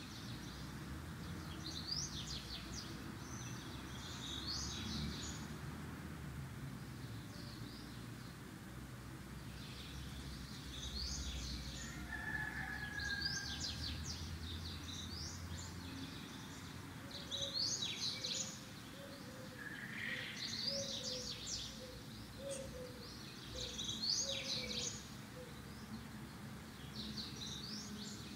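Small birds chirping and singing, a burst of quick, high, rising chirps every few seconds.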